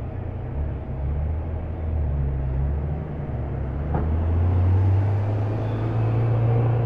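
A car engine running at low revs, its deep note stepping up in pitch and getting louder about four seconds in as the revs rise, with a short click at about the same moment.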